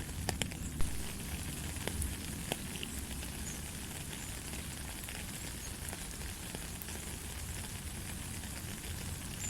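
Steady light rain falling, with scattered individual drop taps and a low rumble underneath; one sharper tap comes just under a second in.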